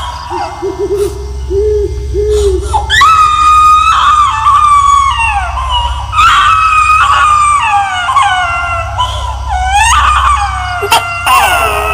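Horror sound effect of a baby crying and wailing in long, high, gliding cries, one after another, over a steady low rumbling drone.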